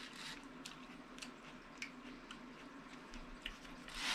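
Faint mouth sounds of eating: small wet clicks of chewing, a couple a second, with a brief louder rustling noise near the end.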